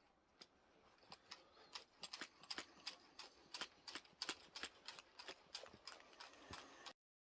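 Pistol-grip grease gun's lever pumped over and over to prime it, a run of faint, quick clicks several a second; the gun is not yet pushing grease. The sound cuts off suddenly near the end.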